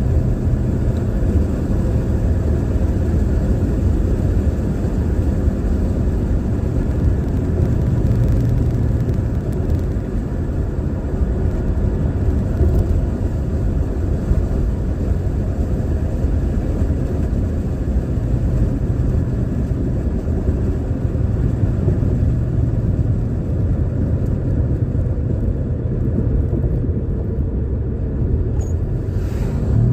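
Car driving at a steady speed, heard from inside the cabin: an even, low rumble of engine and road noise.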